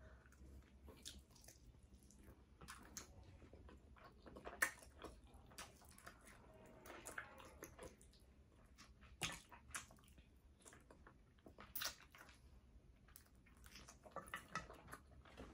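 Faint chewing and mouth sounds of a person eating a chicken wing: scattered soft clicks and smacks, a few sharper ones, over a low background hum.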